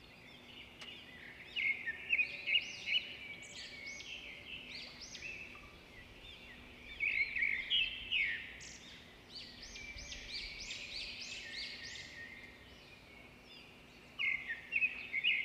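Wild birds singing: many quick, arching chirps repeated and overlapping, louder in clusters about two seconds in, past the middle and near the end.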